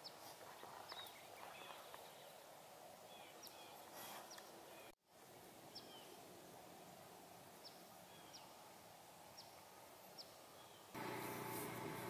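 Faint birds calling: short high chirps, scattered irregularly over a quiet outdoor hush. About eleven seconds in, a louder steady background noise comes in.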